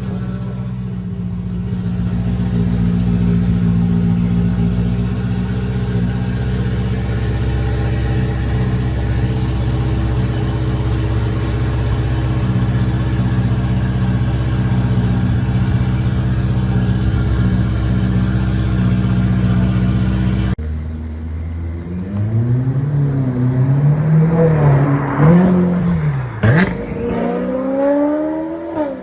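Naturally aspirated supercar engines: about twenty seconds of a steady, deep idle, then, after an abrupt cut, repeated revs rising and falling, with a sharp crack near the end.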